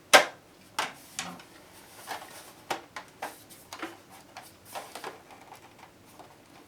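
Clicks and knocks of hands and a tool working on a plastic boombox cabinet: one loud sharp snap just after the start, then an irregular run of smaller clicks and taps.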